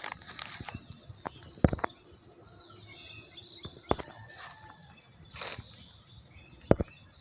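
Outdoor ambience with faint bird chirps and a steady high insect-like whine, broken by three sharp knocks and a brief rustle, as from litter being handled.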